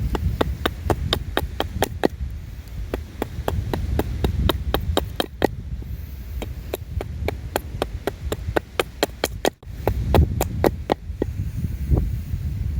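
Knife whittling wood: a quick run of short cutting clicks, about three or four a second, over low wind rumble on the microphone.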